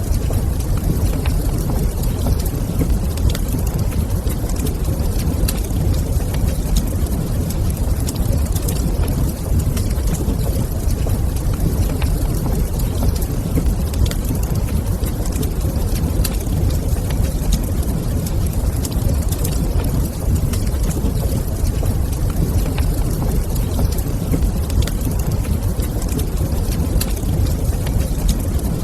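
Fire crackling in a fireplace: scattered sharp crackles over a steady low rumble.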